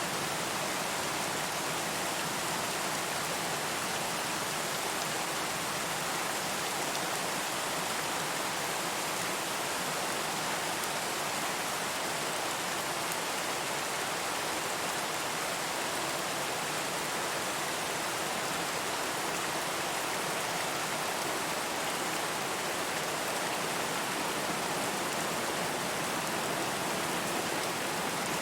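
Steady rain falling, an even hiss of countless drops with no thunder or other events.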